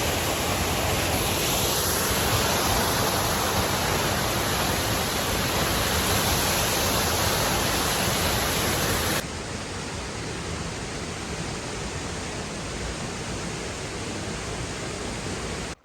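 Waterfall: a steady rush of falling water that drops abruptly to a quieter level about nine seconds in.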